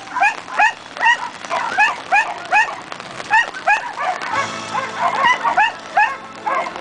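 A dog barking over and over in short, high yaps, about three a second. From about four seconds in, the barks come thicker and overlap, over a steady background hum.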